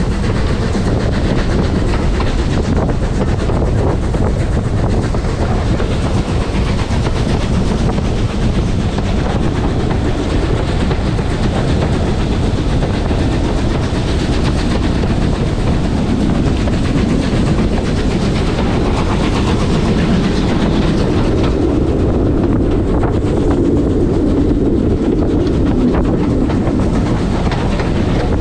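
Train passenger carriage running along the track: a steady rumble of wheels on rail with the clickety-clack of rail joints, heard from inside the carriage.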